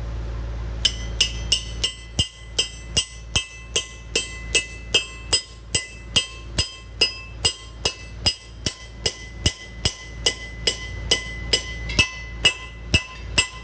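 Hammer blows on a ringing metal part, struck over and over at about two to three blows a second, each blow leaving a bell-like ring.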